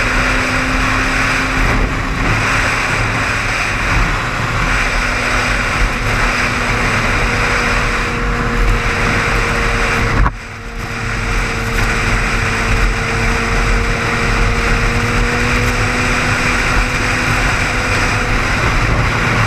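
Car driving at highway speed: steady road and engine noise with a faint steady hum, dipping briefly about ten seconds in.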